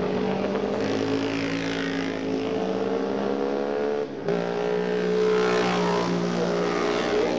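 Vintage DKW two-stroke racing motorcycles passing at speed one after the other, their engines running at high revs. The engine note changes abruptly about four seconds in as the second bike comes through.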